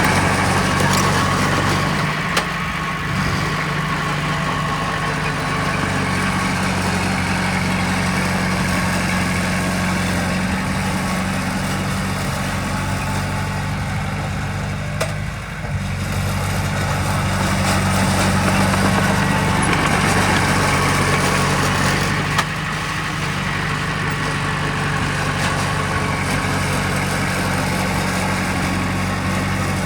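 Heavy diesel engine of earthmoving machinery running steadily, its load easing and building again a few times, with a few single knocks.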